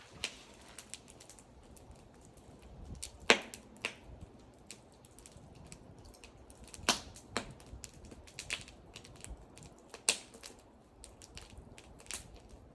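Wood fire crackling: irregular sharp pops and snaps from burning wood, the loudest about three seconds in and other strong pops near seven and ten seconds in.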